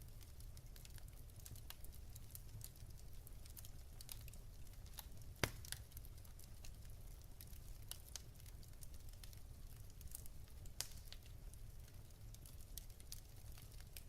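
Wood fire in a fireplace crackling softly, with scattered small pops and one louder pop about five and a half seconds in, over a faint low rumble.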